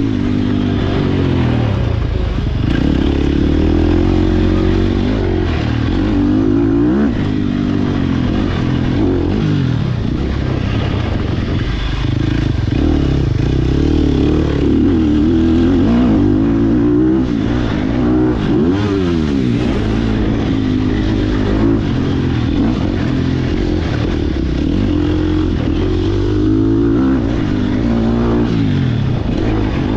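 Sherco SEF300 four-stroke single-cylinder enduro bike being ridden, the engine revving up and down over and over as the revs climb and drop.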